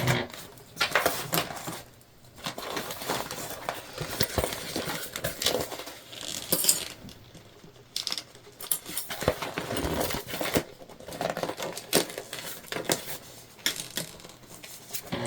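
Irregular small clicks, taps and crinkles of jelly vinyl and sewing gear being handled while the sewing machine is stopped.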